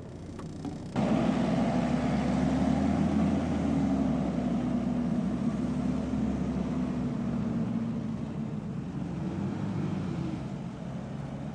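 Jeep engine pulling the vehicle up a steep sandy slope: a steady engine drone that cuts in suddenly about a second in, eases off later, and rises briefly in pitch near the end.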